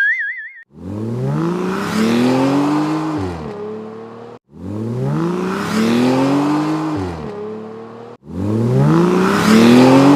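A car engine revving sound effect played three times in a row. Each rev climbs in pitch for about two and a half seconds, then drops away, and the three are identical. A short warbling electronic tone comes before the first one.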